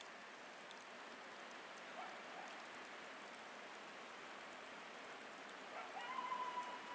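Coyote howling faintly over the steady hiss of a blowing snowstorm: a short rising call about two seconds in, then a longer held howl that rises and levels off near the end.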